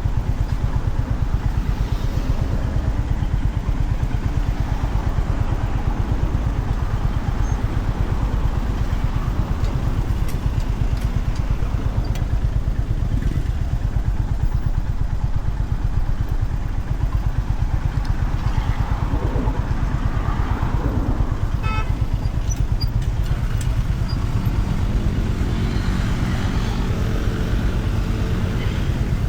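Honda CB350RS's single-cylinder engine running steadily on the move, a continuous low thrum with wind and road noise. A pitched drone joins near the end.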